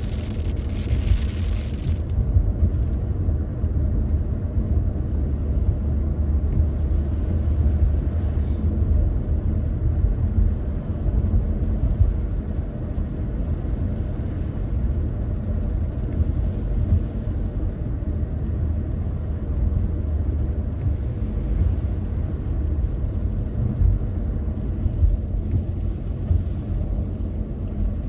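Car driving along the road: a steady low rumble of engine and tyres. A brief hiss is heard at first and stops about two seconds in.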